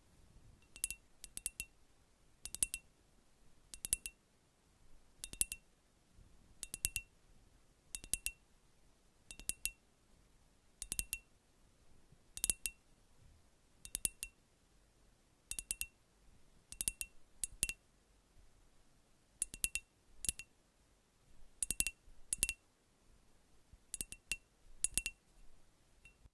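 Light glassy clinks, mostly two strikes close together, repeating about every second and a half, each with a short, high ring.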